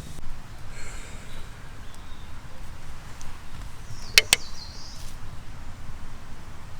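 Two sharp knocks in quick succession about four seconds in, over a low steady outdoor rumble, with short high bird-like chirps around them.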